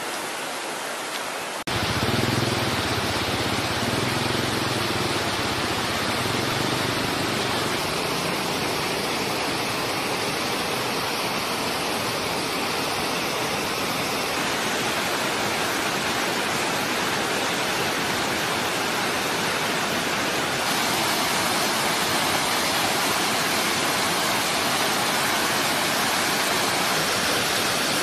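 Steady rushing of fast-flowing floodwater from a river swollen by storm runoff. The sound changes abruptly about two seconds in and again about three-quarters of the way through.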